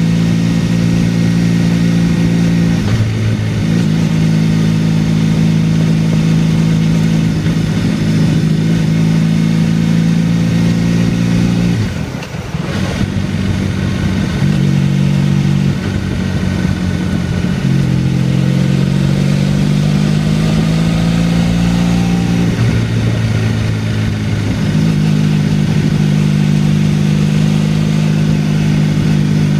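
Motorcycle engine running while riding along a winding road. Its pitch holds steady for stretches, then steps up and down several times, with a brief drop in pitch and loudness about twelve seconds in.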